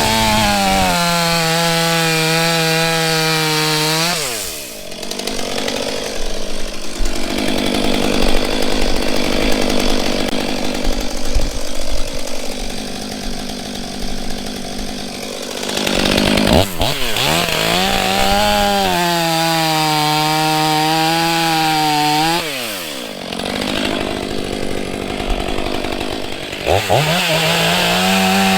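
Stihl MS 500i fuel-injected chainsaw bucking firewood rounds. It runs at full throttle with a high steady whine, then drops sharply in pitch about four seconds in and gives a long, rougher stretch of cutting noise. It revs up high again for several seconds, drops into a second cut, and winds up once more near the end.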